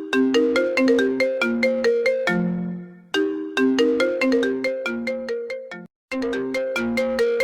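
Apple iPhone ringtone playing on a loop: a short melody of quick, ringing notes that starts over about every three seconds, with a brief cut-out about six seconds in.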